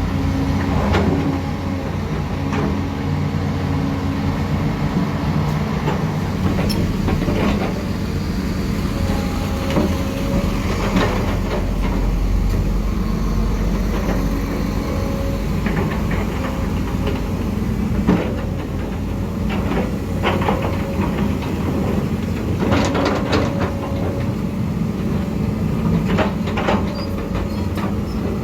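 Heavy diesel earthmoving machinery running steadily under load, with scattered sharp knocks and clanks of metal and rock.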